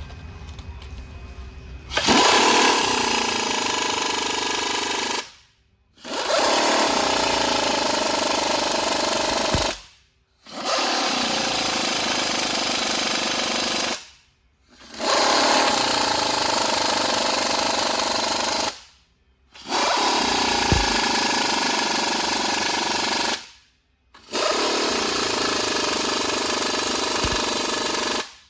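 Pneumatic impact wrench running in six bursts of about three to four seconds each, with short pauses between them.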